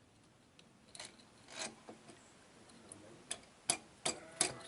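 A few irregular sharp clicks and knocks, hard objects tapping together, coming closer together and louder in the second half.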